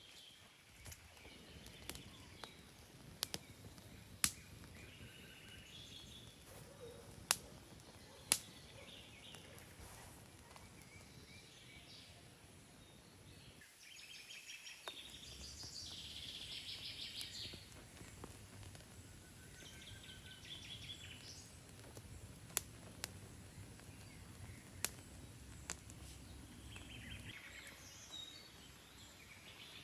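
Songbirds chirping and trilling over a low, steady outdoor background, with scattered sharp clicks or ticks now and then.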